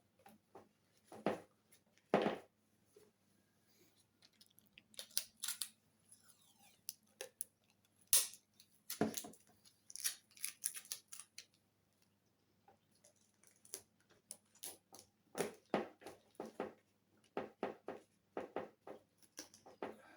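Packaging tape being handled and cut for patching holes in a foam model-airplane wing: an irregular series of short snips and crackles in clusters.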